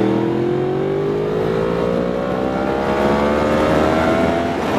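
Sport motorcycle engine accelerating hard through a gear, its pitch rising steadily for about four and a half seconds, then dropping near the end as the next gear is taken.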